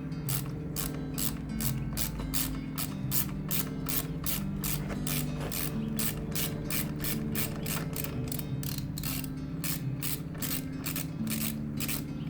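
Ratchet wrench clicking in quick, even strokes, about three to four clicks a second, as bolts are backed off.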